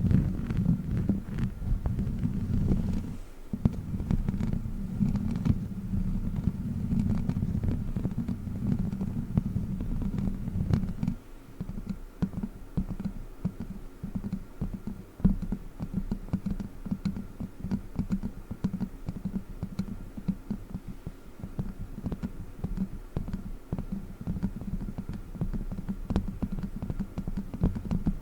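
Close-miked ASMR trigger sounds from a witch-finger prop: a dense low rumble full of fast, irregular clicks. About eleven seconds in it thins out into quicker, more separate tapping clicks.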